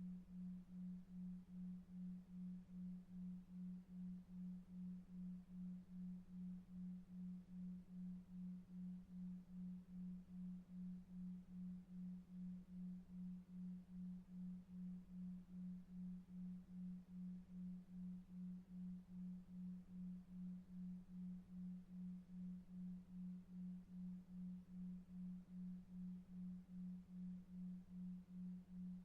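A soft, low pure tone pulsing evenly about two and a half times a second: a 2.5 Hz 'delta wave' sleep tone, over faint brown noise.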